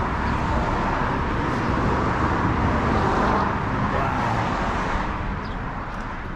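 Rushing road traffic noise that swells through the middle and eases off near the end, as a vehicle goes by on the road.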